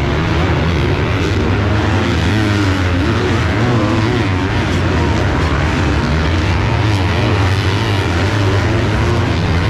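250-class four-stroke motocross bikes racing, several engines rising and falling in pitch together.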